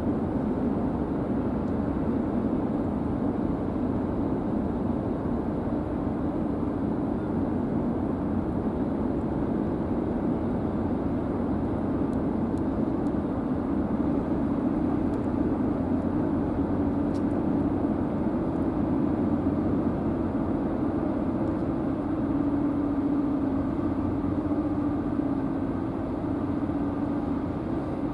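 High-speed car ferry's engines running with a steady low drone as the ship gets under way. The hum grows more even and tone-like over the last few seconds.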